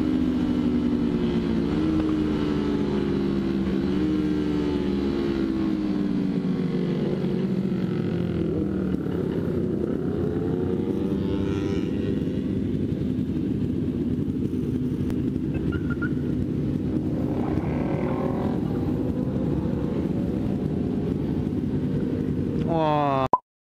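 Kawasaki Ninja 250 parallel-twin engine heard from the rider's seat, its pitch falling as the bike slows, with two short upward jumps in pitch along the way, then settling to a steady idle among other motorcycles at a stop. Near the end the engine rises briefly and the sound cuts off suddenly.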